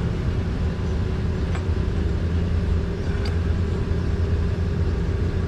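Steady low mechanical rumble with a constant hum, and two faint light clicks partway through.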